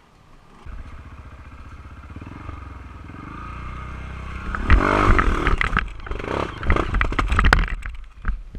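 Honda CRF230 dirt bike's single-cylinder four-stroke engine running steadily, then revving hard from about five seconds in, with a run of clattering knocks and scrapes over the engine before it drops away near the end.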